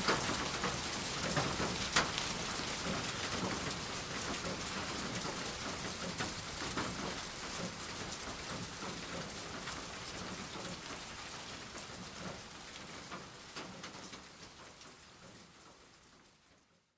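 Steady rain falling, with many individual drops pattering on a surface, gradually fading out and dying away near the end.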